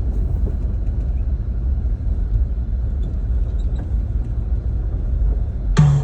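Car on the road, a steady low rumble of engine and tyres. Music comes in suddenly near the end.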